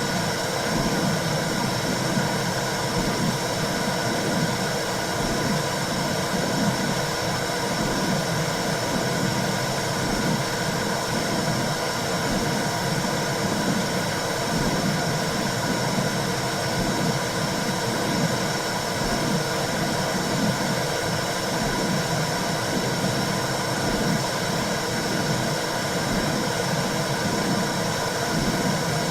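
Womb sound for calming a baby: a steady whooshing noise with a low pulsing running through it, in the manner of blood flow heard inside the womb.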